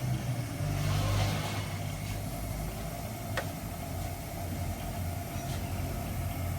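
Car engine idling steadily, swelling briefly about a second in, with one sharp click about halfway through.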